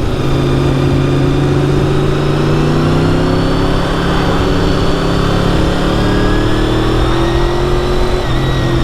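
Honda VFR750's V4 engine running at fairly steady revs under way, its pitch drifting slightly and easing off near the end, with wind rushing over the bike.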